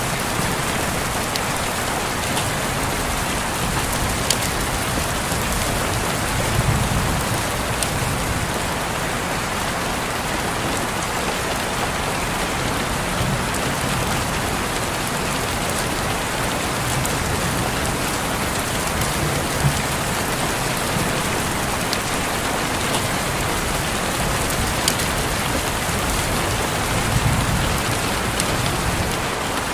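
Steady rain falling on a window, an even hiss with scattered sharp drop ticks and a few soft low swells.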